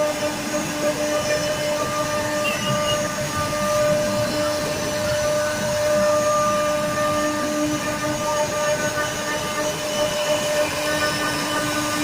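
Woodworking machine running steadily, a high whine over a rushing noise.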